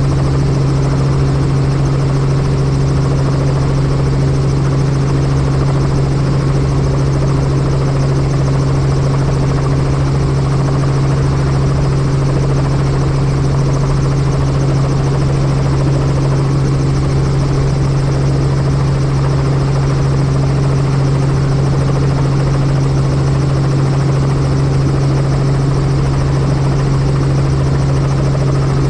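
Helicopter in flight: a steady, unchanging drone of rotor and engine with a strong low hum and a few overtones.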